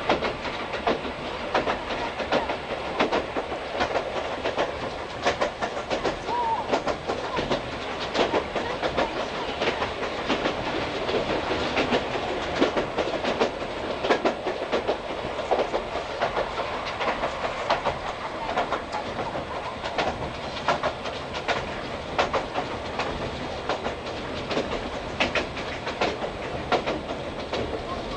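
Running noise inside an old JNR passenger coach on the move: a steady rumble of steel wheels on the rails, broken by many irregular clicks and knocks as the wheels cross rail joints.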